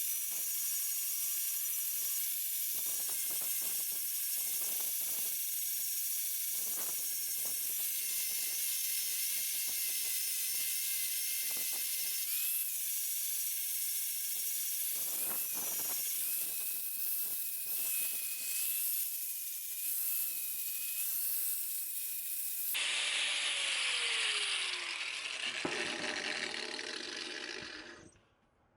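A power grinder running against the steel of a hammer head, with a steady high whine and scraping contact. About three-quarters of the way through comes a louder, rougher stretch with a tone that falls as the tool slows, and then the sound fades out.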